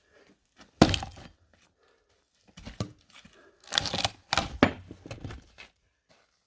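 Blows on an axe driven into a big firewood log, with the wood cracking and tearing as it splits. The sharpest strike comes about a second in, then a run of knocks and cracks a few seconds later.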